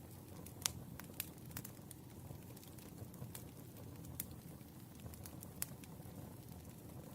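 Firewood burning: a low steady rush of flame with a handful of sharp, irregular crackles and pops, the loudest early on.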